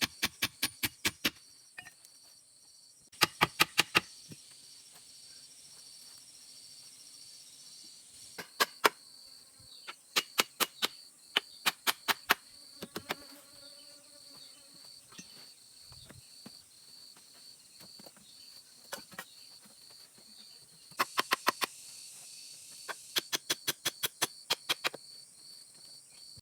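Insects chirping steadily in a high, regular pulse throughout. Over them come loud runs of sharp knocks, five to eight in quick succession, repeating every few seconds.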